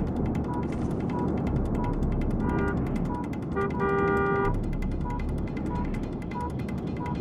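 Car horn honking twice, the second blast held for about a second, over a short electronic beep repeating about every two-thirds of a second and a steady rumble of vehicles at a crash scene.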